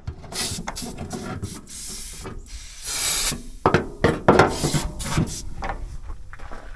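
Aerosol can of oven cleaner spraying onto a greasy engine in several short hissing bursts, followed by scraping and clattering from handling the can.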